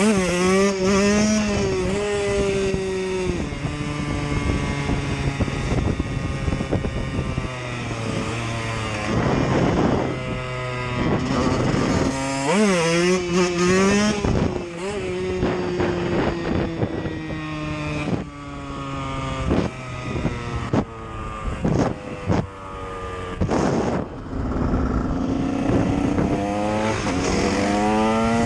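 KTM EXC supermoto motorcycles being ridden. The engine note climbs and drops again and again as a bike accelerates through the gears and backs off, over a steadier second engine note, with wind on the microphone.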